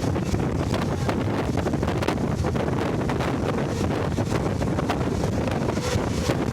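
Wind buffeting the microphone: a steady low rumble with frequent short crackles.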